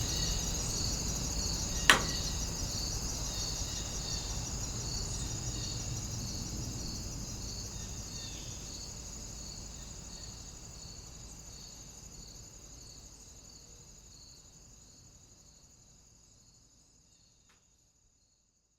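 Crickets chirping in a steady pulsing trill over a low, even background noise, the whole fading out gradually until it stops near the end. One sharp click about two seconds in.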